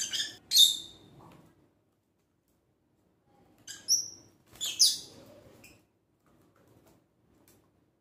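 A small pet bird giving short, shrill chirps: a quick pair at the start, the second the loudest and dropping in pitch, then a cluster of four about four seconds in.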